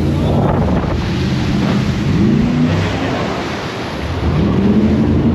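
Jet boat engine rising and falling in pitch over rushing water and wind on the microphone, easing off about four seconds in and then picking up again.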